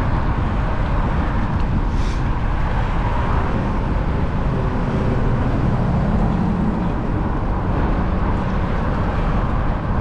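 Steady wind rumble and road noise while riding a bicycle among traffic, with a passing vehicle briefly showing as a low hum about six seconds in.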